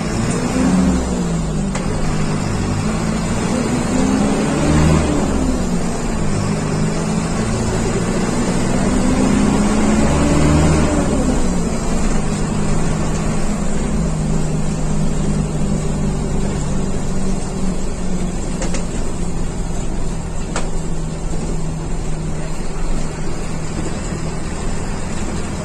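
Diesel engine of a Mercedes-Benz OF 1721 bus under way. The engine note climbs and drops three times, as if revving up through gears, then settles about halfway through to a steady drone.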